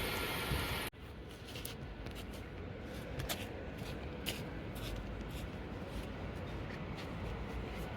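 A train running through the station, cut off abruptly about a second in. After the cut there is a quieter low rumble with scattered small clicks.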